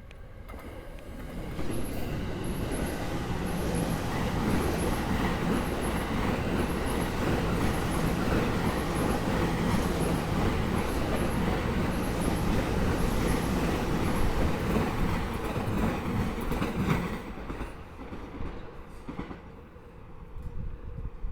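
Sobu Line train running through the station, its wheels clattering loudly over the rail joints. The noise builds about a second in, holds for some fifteen seconds, then fades near the end.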